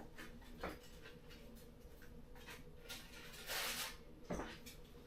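Faint handling sounds: scattered small clicks and knocks, with a brief rustle about three and a half seconds in.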